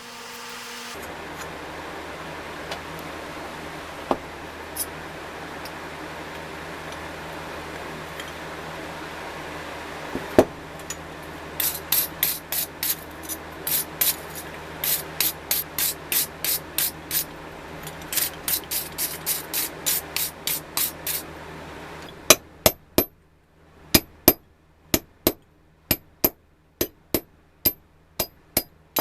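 Hammer tapping on metal: a quick run of sharp taps over a steady hum, then louder single strikes about once a second after the hum stops.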